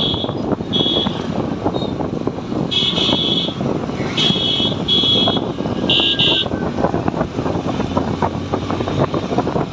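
Motorcycle on the move, with engine and wind noise on a phone microphone, and a vehicle horn beeping in six short toots during the first two-thirds.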